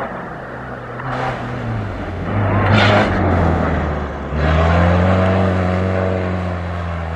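Rally-raid competition vehicle passing under hard throttle, its engine note changing pitch with a rushing surge of noise a little under three seconds in, then a sudden louder, steady engine note from about four and a half seconds in.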